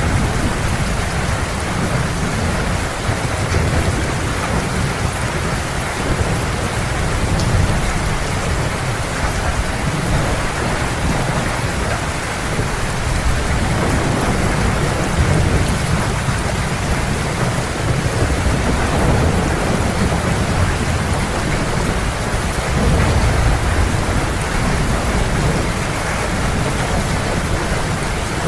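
Heavy, steady rain with a continuous low thunder rumble underneath.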